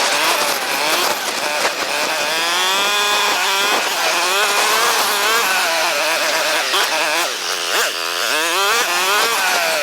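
A 450 dirt bike's single-cylinder engine revving up and down over and over in sped-up footage, its pitch raised so that it sounds like a remote control car.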